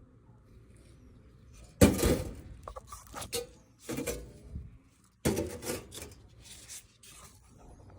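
Clattering and clinking of hard objects being handled, in two loud bouts about two and five seconds in, with a few lighter knocks between.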